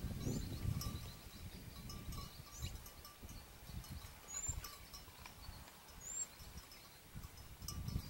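Short high rising bird chirps, repeated every second or two, over a low rumbling noise and scattered light clinks.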